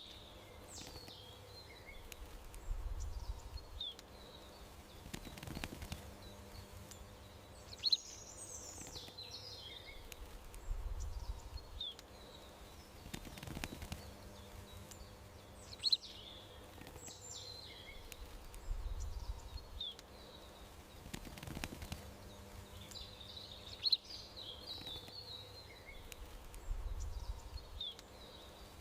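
Songbirds chirping with short, sharp high calls and quick twittering phrases, in a pattern that repeats about every eight seconds, over a faint steady hum.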